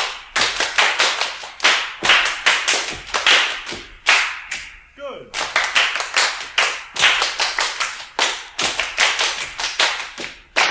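A group playing body percussion in rhythmic phrases: claps, pats on the thighs, finger snaps and foot stamps, each adding its own colour, from high snaps to bass stamps. The strokes come about four to five a second, with a short break about four seconds in.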